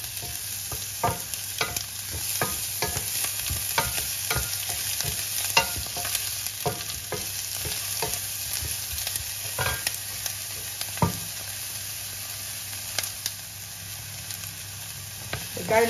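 Chopped onion and ginger sizzling in olive oil in a frying pan, the onion not yet transparent. A utensil stirring knocks and scrapes against the pan one or two times a second, thinning out over the last few seconds.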